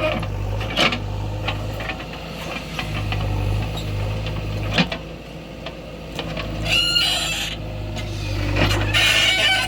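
Heavy diesel machinery engine running, swelling and easing, with a few sharp metal knocks and a brief squeal about seven seconds in.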